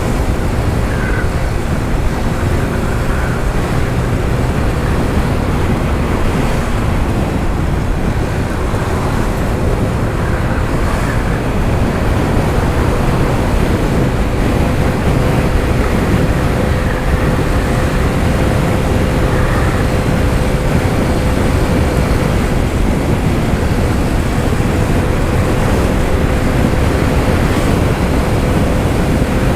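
Wind rushing over the microphone of a riding Honda ADV 160 scooter, with the scooter's single-cylinder engine humming steadily underneath.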